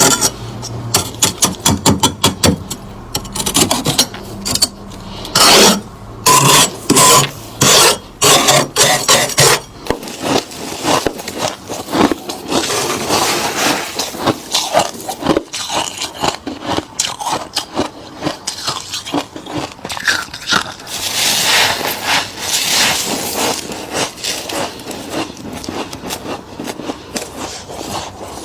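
Freezer frost being scraped by hand: rapid runs of crisp rasping scrapes, loudest in the first third.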